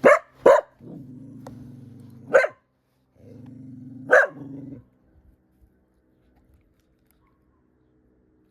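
Fearful dog barking and growling: two sharp barks, a long low growl, then another bark and a second growl broken by a bark, falling quiet about five seconds in. These are fear barks and growls from a dog that does not yet trust the person close to her.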